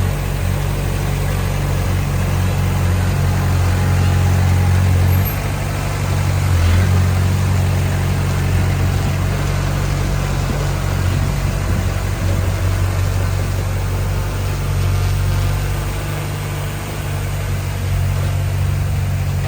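A bulldozer's diesel engine running steadily with a deep, even drone. It dips briefly about five seconds in and swells again near seven seconds as the load shifts.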